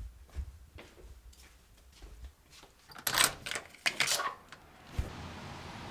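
Scattered knocks and rustles of someone moving about, with a cluster of sharp clattering noises about three to four seconds in. Near the end a thump, after which a steady hiss of outdoor air sets in.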